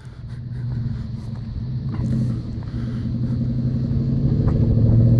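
Ford F-150 running through a Roush aftermarket exhaust, a low steady exhaust note at an even engine speed that grows gradually louder.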